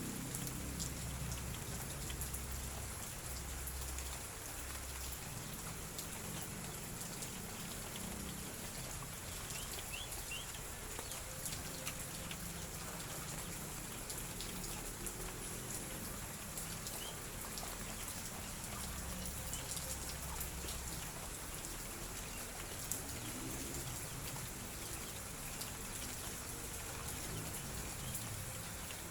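Light drizzle falling: a steady hiss with many small raindrops ticking on surfaces.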